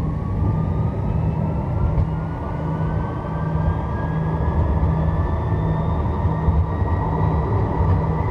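Electric tram accelerating: the traction-drive whine rises steadily in pitch over a continuous rumble of wheels on rail, heard from inside the tram.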